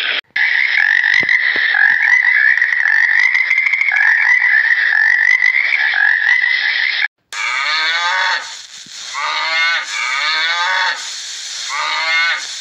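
A dense, steady chorus of frogs croaking for about seven seconds. It cuts off suddenly and is followed by a series of repeated, wavering goat bleats.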